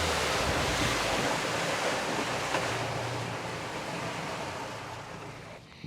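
Wind and water rushing past a small aluminum fishing boat, fading steadily as the boat slows down from running speed; the outboard's low drone drops away right at the start. A short click near the end.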